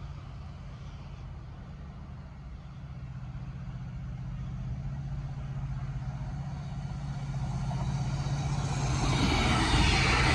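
Class 68 diesel locomotive approaching, its engine drone growing steadily louder. Wheel and rail noise rises sharply over the last second or so.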